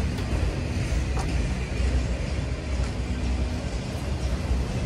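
Freight train of autorack cars rolling slowly past: a steady low rumble of wheels on the rails, with a few faint clicks.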